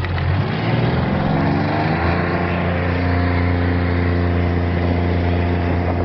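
Mule utility vehicle's engine pulling away under load while towing a quad bike uphill: it comes up loudly, rises in pitch over the first second or two, then runs steadily.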